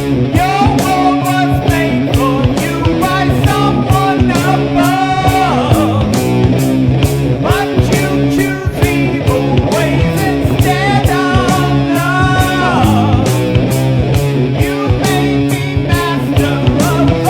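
Heavy rock song: electric guitar on two tracks with drums and bass, and a doubled sung vocal with a little reverb, its held notes wavering and bending.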